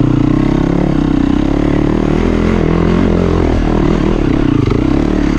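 Dirt bike engine running loud at fairly steady, low revs while climbing a steep hill.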